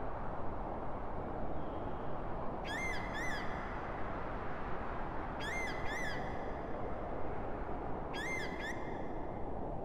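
Steady low wind with a bird calling over it, each call two quick high notes, heard three times about every two and a half seconds.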